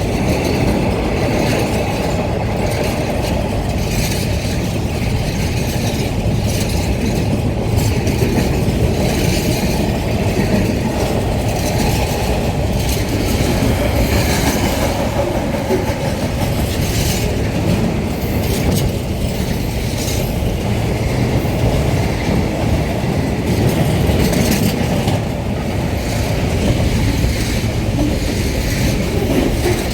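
Freight train rolling past at close range: a steady, loud rumble of wagons with repeated clicking of wheels over the rails.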